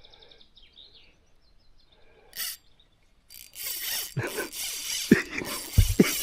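Small birds chirping faintly for the first two seconds, then a brief swish. From about three seconds in comes a loud rushing noise with several dull thumps, like wind or handling on the microphone.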